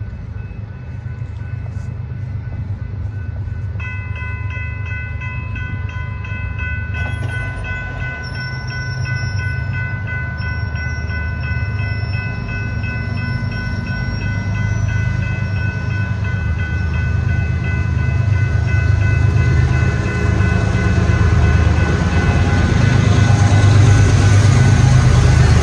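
A BNSF train's diesel locomotives rumbling steadily and growing louder as the train draws near. About four seconds in, a set of steady high ringing tones starts and fades out past the middle.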